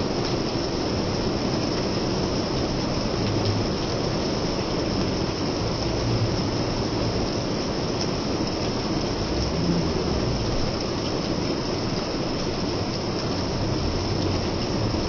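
Steady rain, an even continuous hiss with a low rumble underneath.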